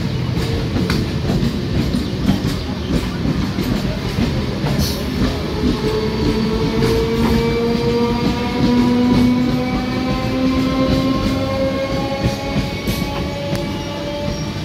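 Electric suburban local train (EMU) running past close by, a loud steady rumble with wheels knocking over rail joints. From about five seconds in a whine from its electric motors rises slowly in pitch, fading near the end.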